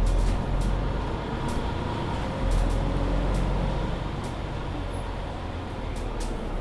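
Mercedes-Benz Citaro C2 hybrid city bus under way, heard from inside the passenger cabin: a steady low engine and driveline rumble with road noise. Small rattles and clicks from the interior sound throughout. About two seconds in the engine sound briefly drops off and then picks up again.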